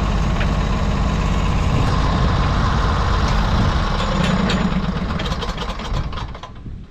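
Norwood HD36 portable sawmill's gas engine running loudly, then winding down and dying away near the end.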